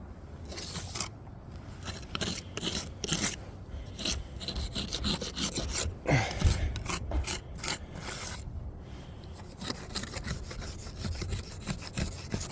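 Steel jointing tool scraping and rubbing along fresh mortar joints in brickwork, in many short, irregular strokes, pressing the mortar in and slicking the joints smooth. A brief pause about nine seconds in.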